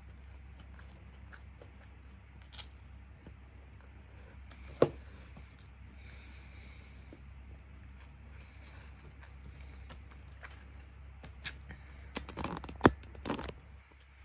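Someone eating karaage fried chicken and rice: quiet chewing with crunchy clicks, a sharp knock of tableware about five seconds in, and a flurry of crunches and knocks near the end, over a steady low hum.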